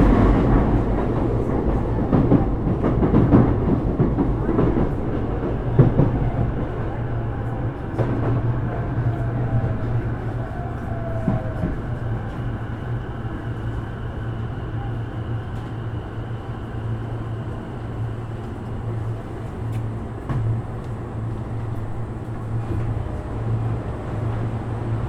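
Sotetsu 12000 series electric train (Mitsubishi IGBT-VVVF control) running on the line: steady rolling and traction noise, with knocks over the rails in the first several seconds, then settling a little quieter and steadier.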